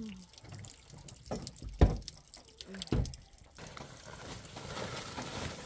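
Water pouring and dripping, with two sharp knocks early on and a steady rush of water building in the second half.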